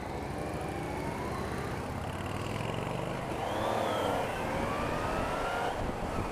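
Yamaha Niken GT motorcycle's three-cylinder engine under way, its pitch rising several times as it accelerates, over wind and road rumble.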